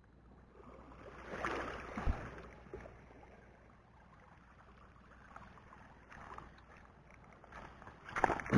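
Shallow water sloshing and splashing at the shore. There is a knock about two seconds in, and a short, louder sound that falls in pitch near the end.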